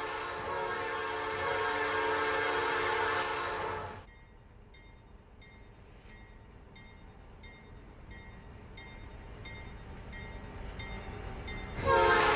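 Locomotive air horn sounding a long chord that cuts off about four seconds in, from Norfolk Southern AC44C6M No. 4497 leading an ethanol train. The train's rumble then slowly builds, and the horn starts another blast near the end.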